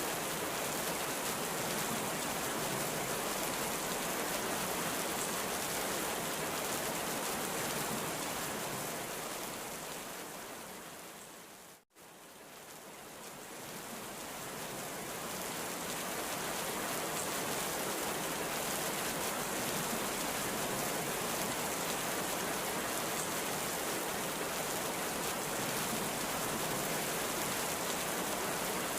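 Heavy rain falling in a steady, even hiss. About twelve seconds in it fades down to a moment of silence, then swells back to full strength over a few seconds.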